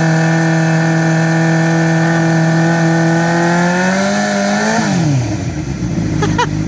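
A motorcycle engine held at high revs for about five seconds under throttle, creeping slightly higher, then dropped suddenly as the throttle is released and settling to a low steady run.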